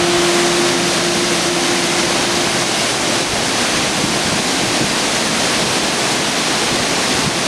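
Steady, loud rush of a waterfall. A few held music notes fade out in the first few seconds.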